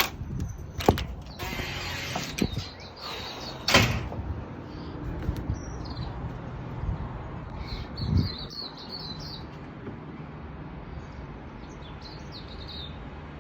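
Wind gusting and rumbling on the microphone ahead of a thunderstorm, with a few sharp knocks in the first four seconds and a low thump later. Birds chirp briefly several times in the second half.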